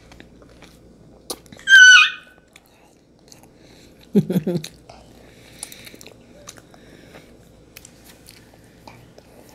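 Close-miked mouths chewing soft marshmallow Peeps, with small wet clicks throughout. About two seconds in comes one short, loud, high-pitched squeal, likely from the toddler, and about four seconds in a brief low voiced sound.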